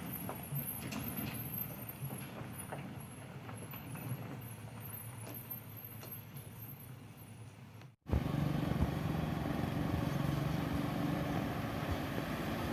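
Heavy sand truck's engine running under load, slowly fading over the first several seconds with scattered clicks and knocks. The audio breaks off about two-thirds of the way through and resumes with a louder, closer, steady engine drone.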